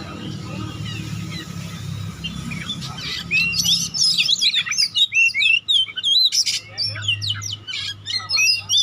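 Oriental magpie-robin (kacer) singing hard in the fast, crowded 'konslet' style: a quick run of varied whistles, chirps and sweeping notes that grows denser about three seconds in.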